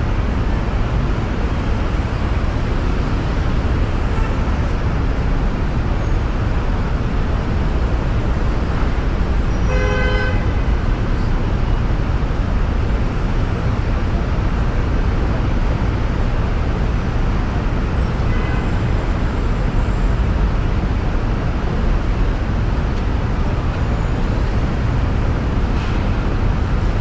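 Steady road and tyre noise of a car driving on snowy city streets, with a short car horn toot about ten seconds in and a fainter one a few seconds later.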